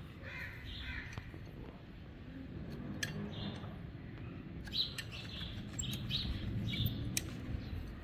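Birds chirping in short, repeated calls, with a few sharp clicks.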